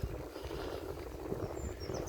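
Wind buffeting the microphone and riding noise from a moving bicycle, with a bird starting a quick run of high chirps near the end.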